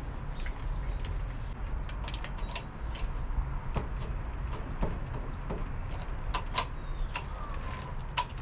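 Scattered light metallic clicks and clinks from hand work on the motorbike's new ignition barrel and keys, over a steady low hum.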